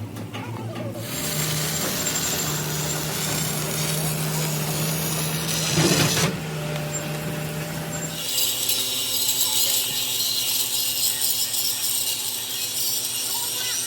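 Workshop power tools working heavy steel, in edited segments. A steady machine hum with a low tone breaks off about eight seconds in and gives way to a steady high hissing, grinding noise.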